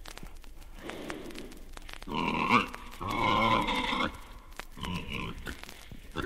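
Pigs grunting and squealing in short bursts: a loud one about two seconds in, a longer one from three to four seconds, and a shorter one around five seconds.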